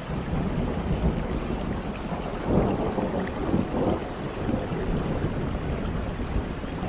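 Steady rain with a low rumble of thunder that swells about two and a half seconds in and eases off after a second or two.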